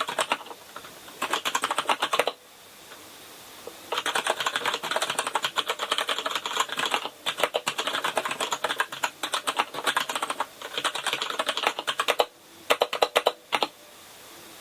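Rapid typing on a KINESIS Advantage contoured keyboard with Cherry MX Brown switches, key strokes clacking in fast runs broken by short pauses. The typing stops about a second before the end.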